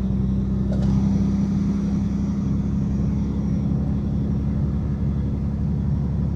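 Semi-truck's engine running at a steady cruise with tyre and road noise, heard from inside the cab: an even, unchanging low drone.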